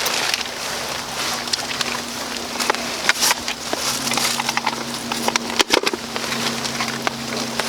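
Heavy rain falling steadily, with many sharp clicks and knocks over it; the loudest come about three seconds and about six seconds in.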